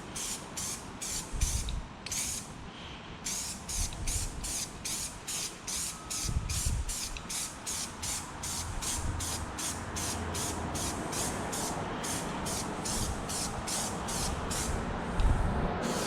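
Aerosol spray paint can being shaken, its mixing ball rattling in a steady rhythm of about two to three strokes a second, with a short break about three seconds in.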